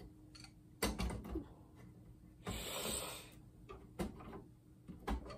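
Scattered clicks and knocks of a monitor's internal parts being handled and pried at during a teardown, with a short rushing hiss lasting just under a second about halfway through.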